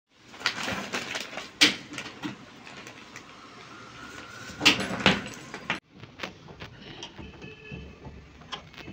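Clicks and knocks, like a door or drawer being opened and shut, with two sharp clicks about a second and a half and four and a half seconds in.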